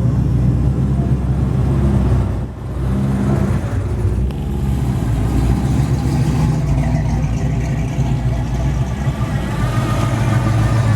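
Car engine running steadily at low revs, with a brief dip in loudness about two and a half seconds in.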